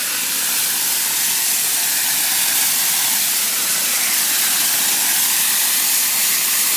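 Water left running outdoors, spraying with a steady hiss.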